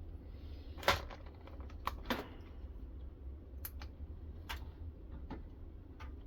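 A few scattered light clicks and knocks from handling the parts of a guided knife-sharpening setup, the loudest about a second in, over a low steady hum.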